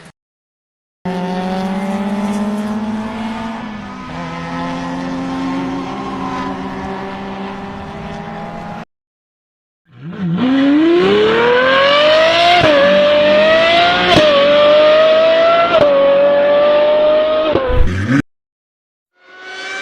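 Two separate clips of a performance vehicle engine. First the engine runs at a fairly steady high pitch for about eight seconds. After a short silence, an engine accelerates hard, its pitch climbing with brief dips at each gear change, and it cuts off suddenly near the end.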